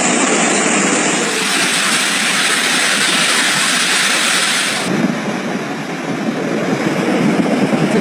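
Loud, steady rushing noise of flash floodwater. Its character changes abruptly twice, about a second in and again near five seconds, where the footage cuts between clips.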